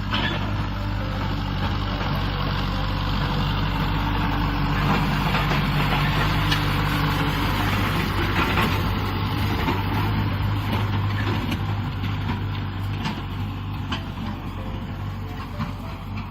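Kubota M6040 SU tractor's diesel engine running steadily while ploughing. It grows louder toward the middle and fades somewhat near the end.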